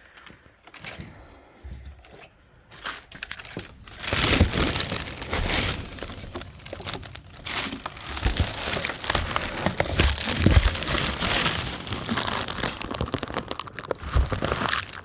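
Packaging crinkling and rustling as a box is unpacked by hand. It is fairly quiet for the first few seconds, then turns into continuous crackly handling noise with small knocks.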